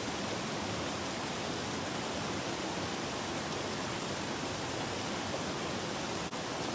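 Mountain stream rushing over rocks: a steady, even roar of running water. The sound drops out for an instant near the end.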